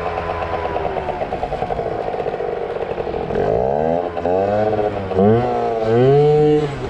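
Yamaha ZR Evo two-stroke scooter engine held at high revs and sinking slightly. From about three seconds in, the throttle is blipped up and down several times in quick rising-and-falling revs.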